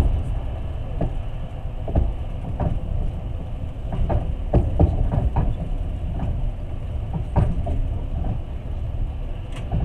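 Passenger train running along the track, heard from inside the carriage: a steady low rumble broken by about ten irregular clacks of the wheels over rail joints.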